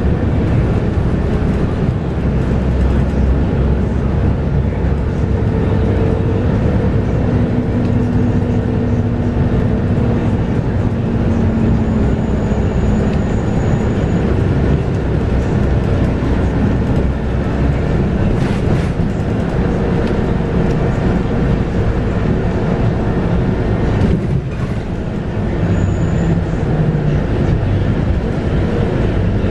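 Scania K230UB bus under way, heard on board: its 5-cylinder Scania DC9 diesel and ZF Ecomat automatic gearbox running with steady road noise, and a few held pitched tones that drift slightly. Loudness briefly drops near the end.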